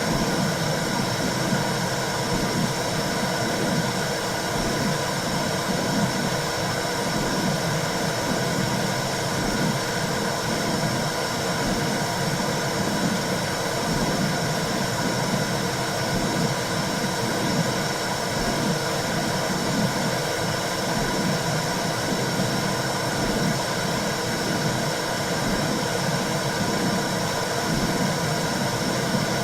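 Womb-sound recording for calming a baby: a steady whooshing noise with a regular pulsing in the low range throughout.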